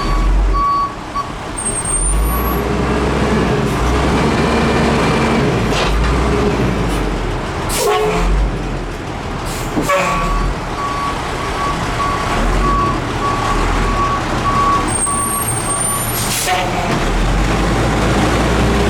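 Peterbilt 310 garbage truck's diesel engine running and rising and falling in revs as it works, with a few sharp knocks. A backup alarm beeps steadily from about halfway in for several seconds.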